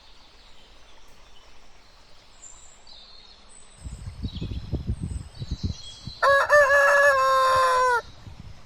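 A rooster crowing once, a single long cock-a-doodle-doo starting about six seconds in and lasting nearly two seconds. Before and under it, low knocks and rubbing noises, and a few faint bird chirps early on.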